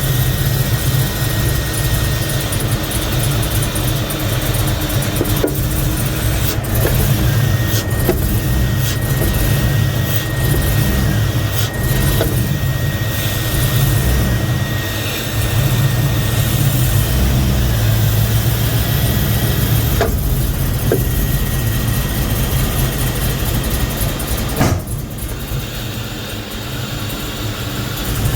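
Swapped 5.3-litre LS V8 engine running with a misfire the owner has not yet traced, which he suspects is a lack of fuel. About 25 seconds in there is a sharp click, and the engine runs quieter after it.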